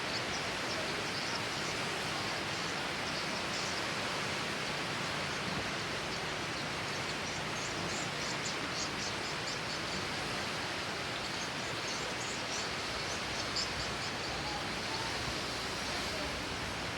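Steady rain falling, an even hiss, with faint short high ticks over it.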